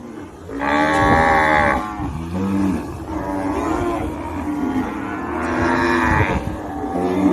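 Cattle mooing: a long, loud moo about a second in, lower calls after it, and another long moo near the end.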